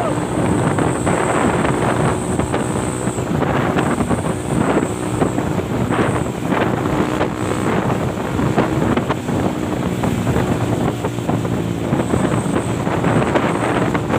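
Heavy truck engine running, with wind buffeting the microphone.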